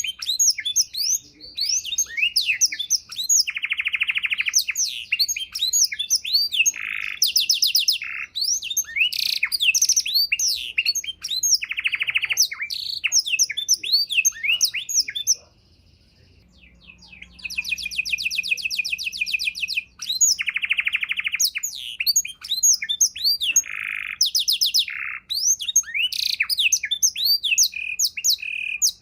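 Domestic canary singing a long, fast, varied song of sweeping chirps and rapid buzzy trills, broken once by a pause of about a second around the middle.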